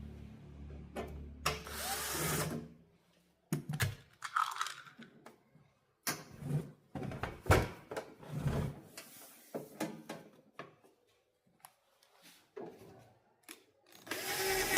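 A small power tool, drill-like, running in short bursts, with clicks and knocks of handling between the runs.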